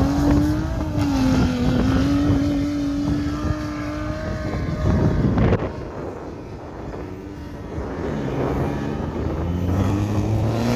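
Off-road 4x4 engine running hard on a steep sand dune, its note holding steady, dipping and rising again. Wind gusts on the microphone about five seconds in.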